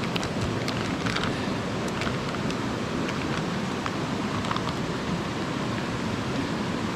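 Mountain stream rushing steadily, with faint scattered ticks over it.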